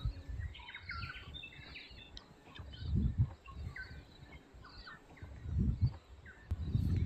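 Small songbirds chirping and whistling, many short notes, with two brief low rumbles about three seconds in and near six seconds.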